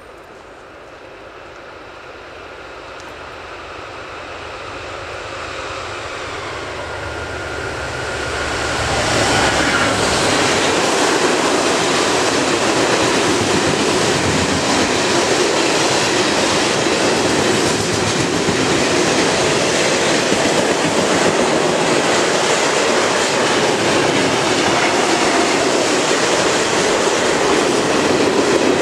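Freight train approaching behind a large diesel locomotive, its engine drone growing steadily louder until the locomotive passes about nine seconds in. Then loaded log wagons roll by close up, a loud, continuous rumble of wheels on the rails.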